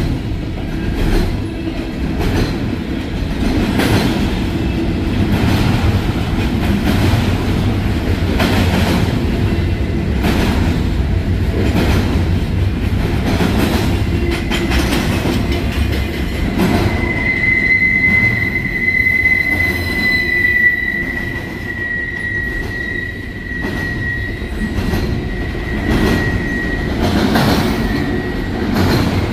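Freight train rolling past, its car wheels clacking in a repeating rhythm. About halfway through, a high, steady wheel squeal sets in; it fades near the end.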